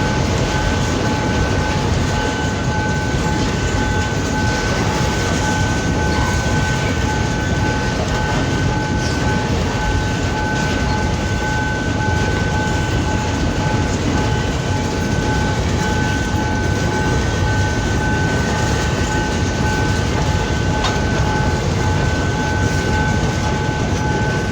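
Freight train wagons rolling past on the rails, a steady loud rumble with clickety-clack from the wheels, along with a steady high-pitched tone throughout.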